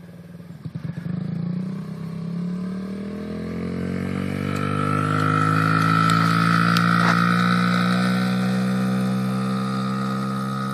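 Honda XR50 dirt bike's small single-cylinder four-stroke engine running under way. It rises in pitch as the bike picks up speed over the first few seconds, then holds a steady note, louder in the middle and slowly fading.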